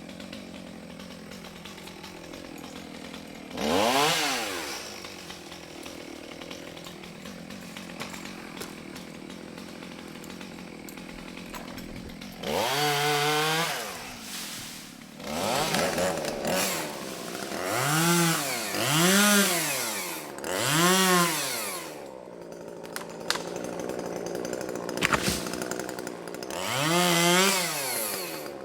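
Chainsaw idling, then revved up in repeated bursts, each climbing and falling back in pitch: one about four seconds in, a run of five from about twelve to twenty-two seconds, and another near the end, as small trees are cut.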